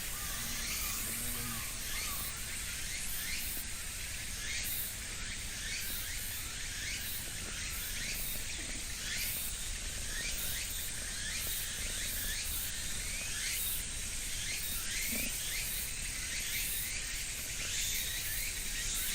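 Outdoor ambience: a steady high hiss laced with many short rising chirps, over a low rumble.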